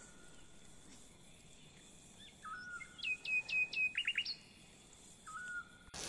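A songbird singing: a short whistled note near the start, a phrase of several quick falling whistles in the middle, and another short whistled note near the end.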